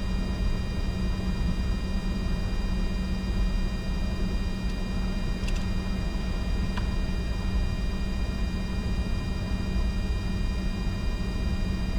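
Steady cockpit noise of a Bombardier Challenger 605 taxiing with its turbofan engines running: a low rumble and hum under a hiss, with several steady high whining tones. Two faint clicks come near the middle.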